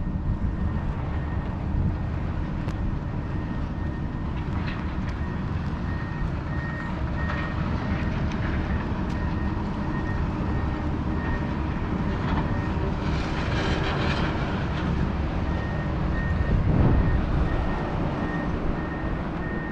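Steady low rumble of a large vehicle or heavy machine, with a faint repeating high-pitched beep in two spells, a few seconds in and again near the end.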